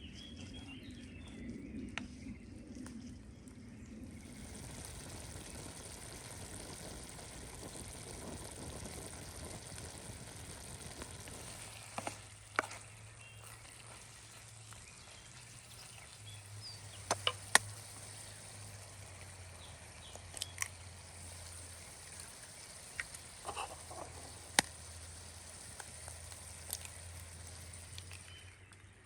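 Food frying over a campfire: a steady sizzle that grows stronger about four seconds in, with a few sharp pops and crackles.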